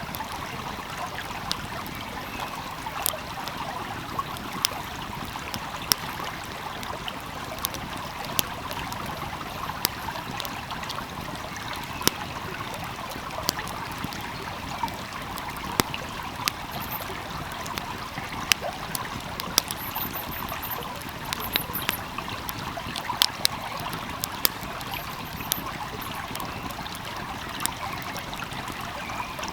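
A stream flowing steadily, with the sharp, irregular pops and crackles of a burning wood fire over it.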